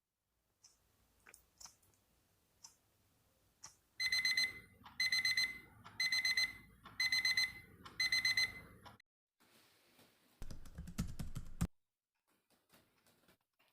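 Electronic alarm clock beeping: five pulsed, high beeps about a second apart, then it stops. A short rustling follows, ending in a sharp click.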